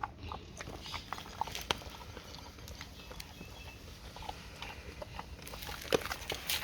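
A dog chewing on a dental chew: scattered irregular clicks and small crunches, with a louder snap about six seconds in.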